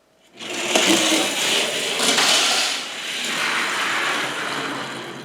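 Two die-cast toy cars rolling down a toy race track, their wheels making a rattling rumble on the track. It starts about half a second in and fades as the cars slow down, and neither car makes it to the finish line.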